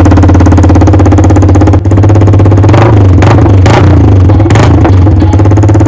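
Yamaha R15 V3's 155 cc single-cylinder engine running very loud through a bare bend pipe with no muffler: a rapid, harsh knocking exhaust note. It is blipped several times through the middle.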